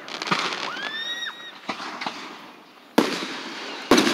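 Fireworks going off: crackling bursts and a series of sharp bangs, the two loudest near the end. A short rising whistle about a second in.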